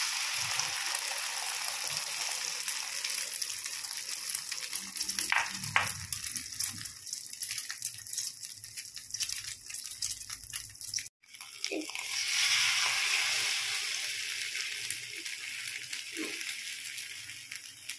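Omelette mixture of egg, tomato and onion sizzling in hot oil in a frying pan, a steady hiss with fine crackle. It breaks off briefly about eleven seconds in, then the sizzling comes back louder.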